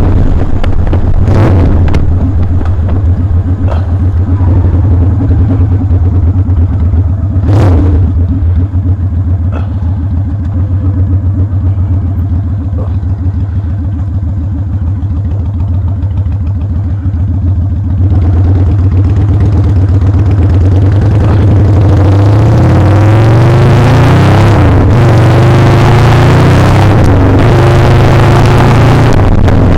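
Motorcycle engine running at a steady low note, with a couple of sharp clicks early on. About two-thirds of the way through it gets louder, and its pitch climbs in steps as the bike accelerates up through the gears.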